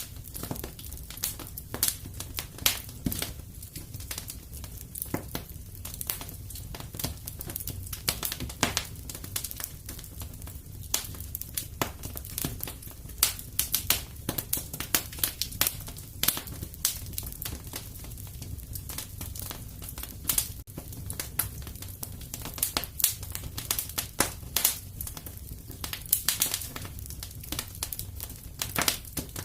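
Fire in a fireplace crackling, with irregular sharp snaps and pops over a low steady rumble.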